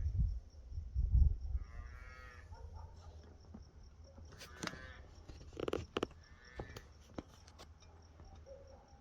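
A low thunder rumble dies away in the first second or so. Then come a few short, faint animal calls and some sharp clicks, over a steady pulsing insect trill.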